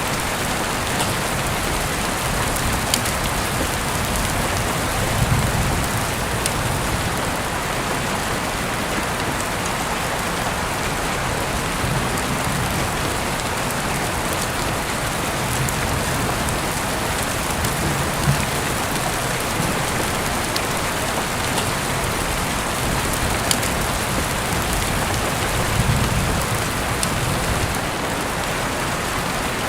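Heavy rain falling steadily as a dense, even hiss, with scattered drops ticking. A few brief low thumps stand out, about five seconds in, near the middle and toward the end.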